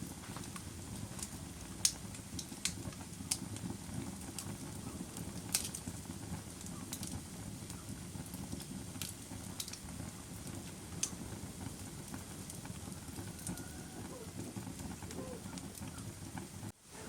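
Campfire burning: a steady low rumble of flames with sharp crackles and pops scattered irregularly throughout. The sound drops out for a moment just before the end.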